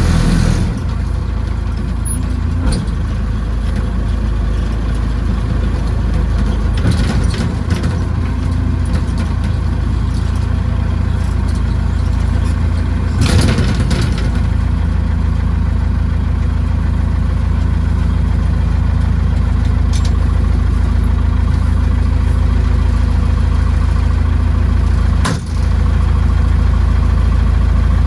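Massey Ferguson backhoe tractor's engine running steadily. About halfway through there is a brief louder rush of noise, and near the end the level dips for a moment.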